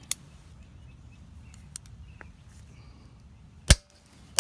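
Needle-nose locking pliers snapping shut and letting go on a screw stuck in a car tire: a few sharp clicks, the loudest two near the end, over a low steady rumble.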